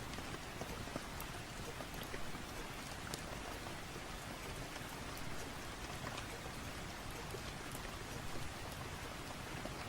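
Steady rain falling, with scattered faint crackles from a wood fire.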